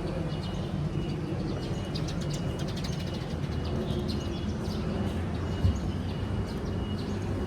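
Small birds chirping in quick, high, short calls, many overlapping, over a steady low background rumble, with one brief low thump a little past the middle.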